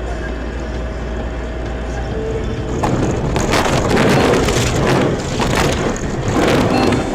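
Vehicle noise picked up by a dash camera: a steady low rumble, then from about three seconds in a much louder, rough rushing noise that rises and falls.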